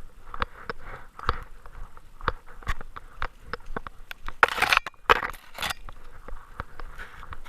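Close-up sound of a camera riding on a Great Dane's body: sharp clicks and rattles several times a second as the dog moves, with two loud rushing noises about halfway through.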